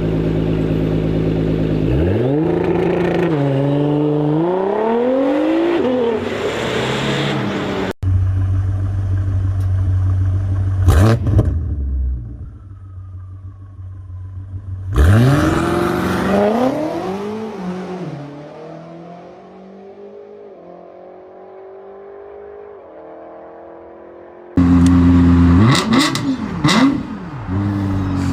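A sequence of different car engines, each idling and then revved, its pitch climbing and dropping with each blip of the throttle. Abrupt cuts switch from one engine to the next: a deep steady idle with a sharp rev about eleven seconds in, a long rev climb that fades away, then a louder engine blipped hard near the end.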